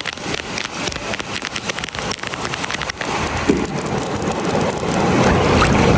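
Surf washing on a beach, with wind on the microphone. A crackling fizz gives way about halfway through to a louder, fuller rush of water.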